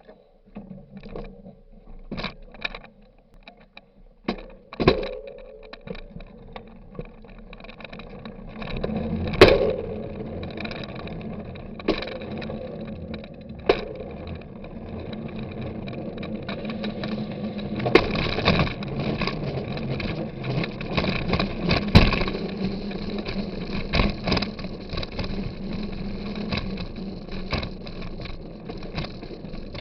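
Scattered clicks and knocks, then from about nine seconds in a bicycle riding along: steady tyre rumble with frequent rattles and sharp knocks over bumps.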